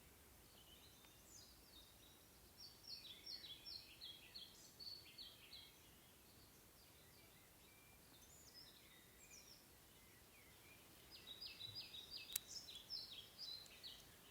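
Faint songbird song: quick runs of repeated high chirping notes in two bouts, one about 2 to 6 s in and another from about 11 s to the end, over a faint steady background. A single sharp click falls about 12 s in.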